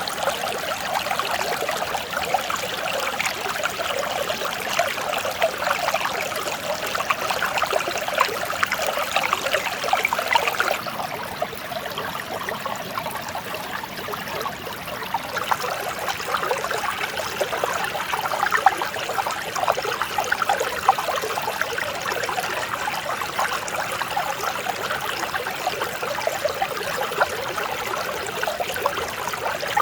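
Mountain stream flowing and babbling over rocks, a steady, even rush of water with a slight change in texture about a third of the way in.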